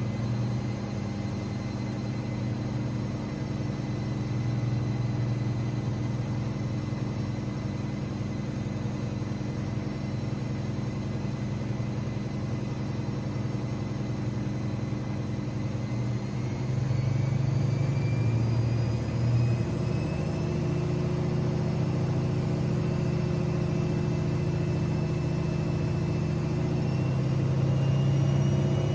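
AEG Lavamat 6610 washing machine running, its drum and motor humming steadily. About two-thirds of the way in, a motor whine starts rising in pitch as the drum speeds up toward a high-speed spin.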